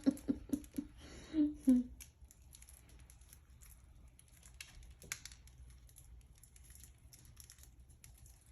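Faint scattered clicks and crinkling as parakeets are hand-fed: small beaks and seed food being handled, with a few short low voice sounds in the first two seconds.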